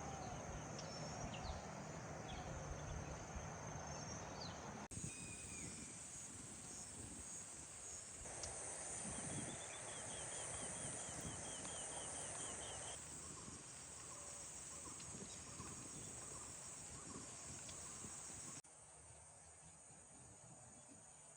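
Forest insects, crickets among them, keeping up a steady high-pitched chorus, with a few short bird-like chirps and a rapid trill of chirps in the middle. The background changes abruptly several times as one stretch of ambience gives way to another.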